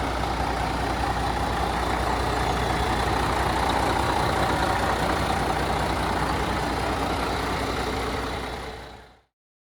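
Heavy truck engine running steadily with a deep low rumble, fading out about nine seconds in.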